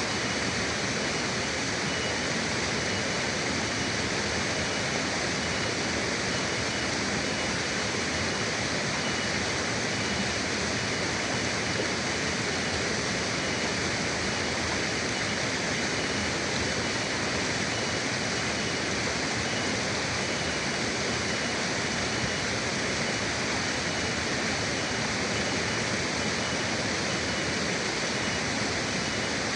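Forest river water rushing in a steady, unchanging stream, with a faint steady high tone running under it.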